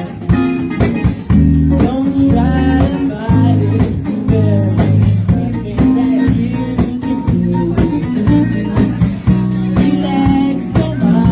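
Live blues-rock band playing: electric guitar, bass guitar and drum kit with a steady beat, and a singing voice over it.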